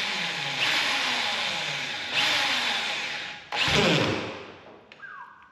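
Power drill boring holes through the sheet-metal back wall of a truck cab, the motor's pitch sinking as it bites under load. It runs for about three and a half seconds, stops briefly, then gives a short second burst that winds down.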